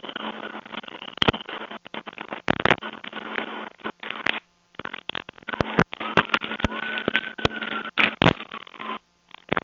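Rubbing and crackling on a police recording microphone: dense, irregular clicks over a steady electrical hum, cutting out to silence twice. A faint tone rises and falls in the background.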